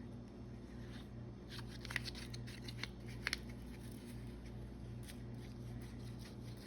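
Paper and craft supplies being handled on a table: light rustling with a few short, sharp clicks clustered in the middle, over a steady low hum.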